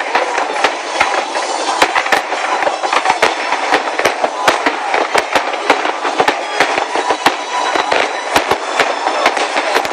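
Fireworks display from Nagaoka, Japan: aerial shells bursting in rapid succession, sharp bangs several times a second over a steady din.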